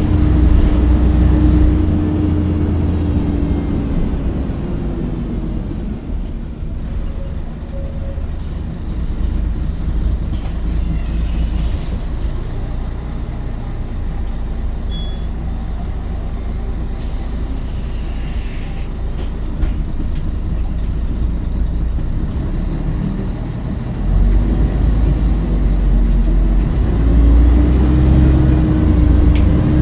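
Scania L113CRL bus's diesel engine: its tone falls away over the first few seconds as the bus slows, runs low for a long stretch, then the engine picks up and climbs again from about 24 seconds in as the bus pulls away.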